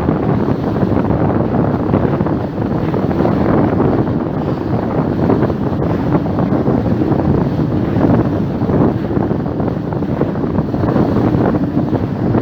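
Wind blowing across the microphone: a loud, steady rush that keeps fluctuating.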